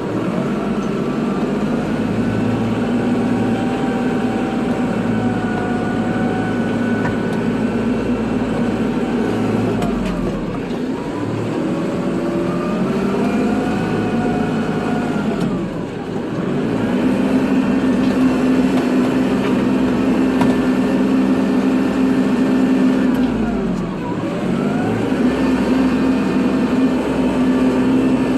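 Kubota tractor's diesel engine running under load while plowing snow. Its pitch sags and picks up again three times, about ten, sixteen and twenty-four seconds in.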